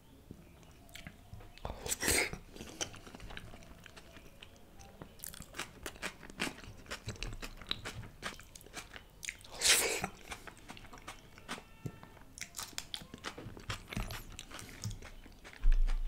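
Close-miked eating sounds: a man chewing a handful of rice mixed with creamy chicken malai tikka, with many small wet mouth clicks and smacks. There are two louder bursts about two and ten seconds in.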